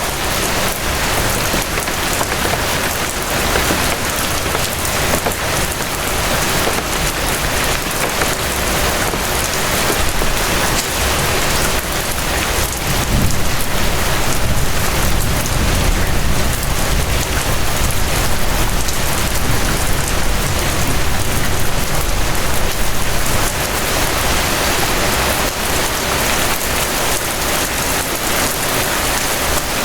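Steady rain falling, an even, dense hiss of many drops. A low rumble swells up through the middle and eases off again.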